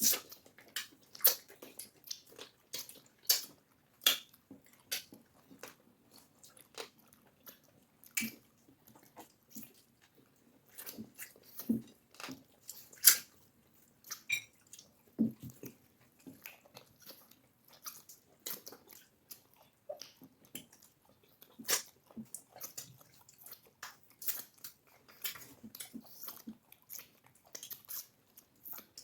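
Close-miked eating sounds of cassava fufu with egusi soup: chewing and irregular short mouth clicks and smacks, one louder about thirteen seconds in.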